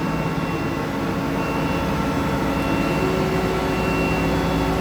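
Machine tool running: a steady motor hum with several constant tones, a faint high whine coming and going.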